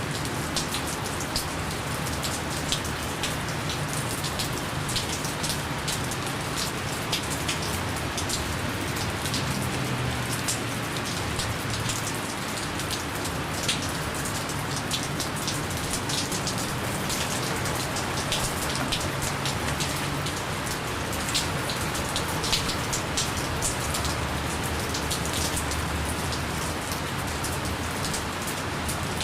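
Steady gentle rain falling, an even hiss of rainfall with many individual drops pattering on a surface. No thunder.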